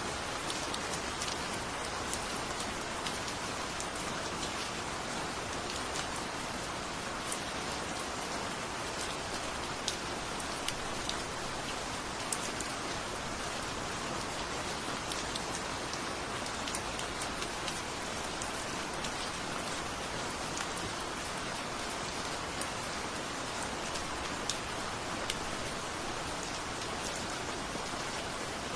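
Steady rain falling, a constant hiss with scattered individual drops ticking close by.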